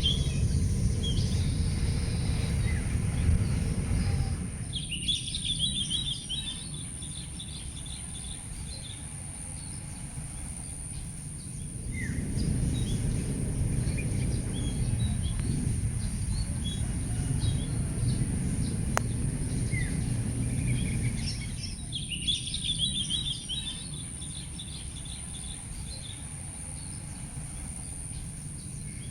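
Birds chirping in short clusters about five seconds in and again just past twenty seconds, over a low rumble that swells and fades. A steady high-pitched tone runs underneath.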